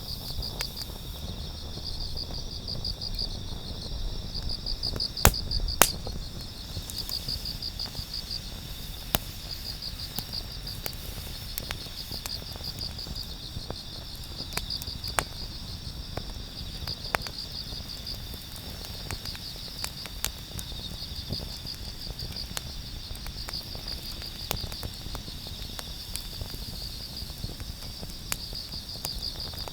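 Insects chirping in repeated short pulsed trills, over the scattered sharp pops and crackles of a wood campfire; two louder pops come about five and six seconds in.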